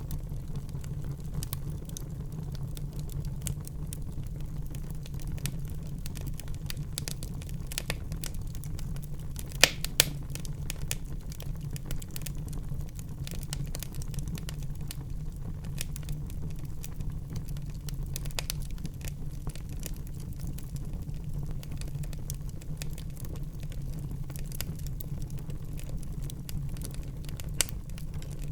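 Wood fire burning in a fireplace: a steady low rumble of flames with frequent small crackles, and two sharp pops close together about a third of the way in.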